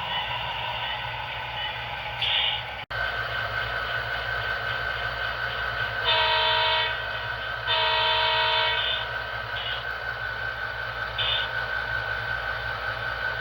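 HO-scale model diesel locomotive's DCC sound decoder sounding its horn through the model's small speaker: two long chord blasts, then two short ones, over a steady engine hum.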